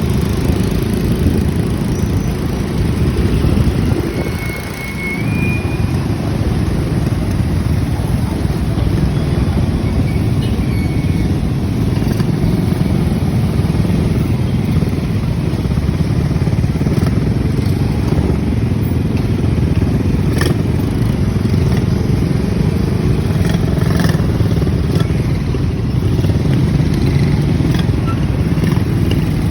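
Motorcycle engine running steadily under way, with road and wind noise. The engine eases off briefly about four to five seconds in.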